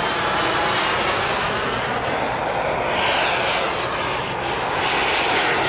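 Radio-controlled model aircraft flying past, with a steady rushing engine noise that gets brighter and higher about three seconds in.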